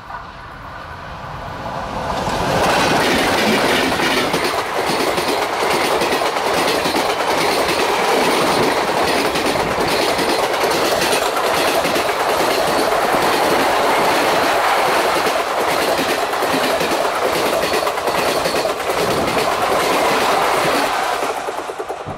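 Twin ALCO WDM3A diesel locomotives and their passenger coaches pass close by at speed, the wheels clattering over the rail joints. The noise builds over the first couple of seconds, stays loud and even while the coaches rush past, and falls away near the end as the last coach goes by.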